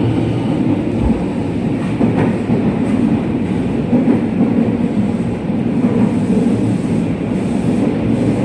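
Running noise inside a JR West 207 series electric train travelling through a tunnel: a steady rumble of wheels on rail, with a few clicks from the track.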